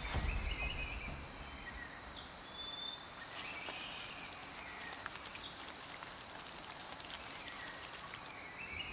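Tropical forest ambience: a steady high-pitched insect drone with scattered short bird chirps, and a dense crackling insect chorus joining about a third of the way in and dropping out near the end.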